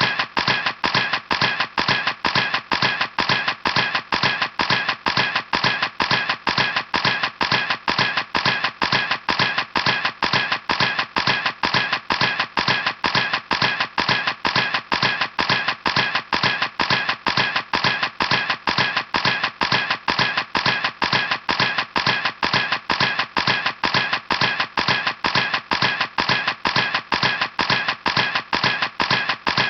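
A camera clicking in a steady, unbroken series of sharp clicks, about three a second.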